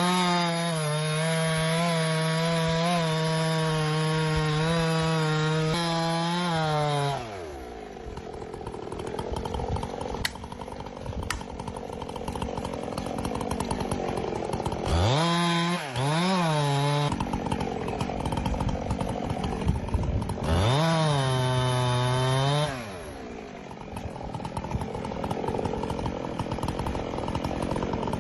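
Two-stroke chainsaw cutting while felling a tree. It runs at full throttle for about seven seconds, drops back to idle, then makes two shorter full-throttle bursts about two and three-quarter seconds long each, idling between and after.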